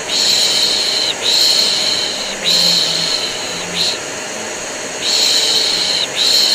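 Rhythmic human shushing, a long "shhh" about a second long repeated over and over with short breaks, over the steady running of a vacuum cleaner: white noise for soothing a baby.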